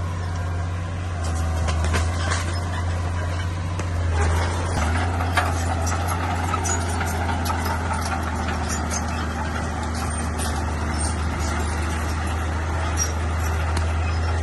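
Heavy diesel engine of a bulldozer running steadily with a low, constant drone, with scattered light clanks over it.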